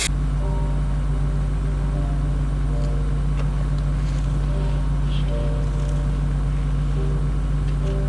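A steady low engine-like drone, with a sparse tune of short held notes over it.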